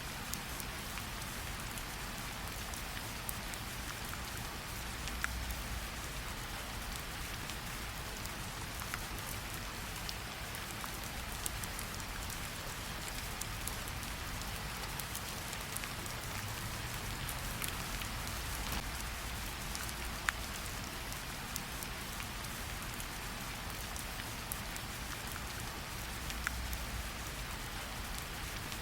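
Steady light rain pattering on tree leaves, with scattered individual drops ticking throughout.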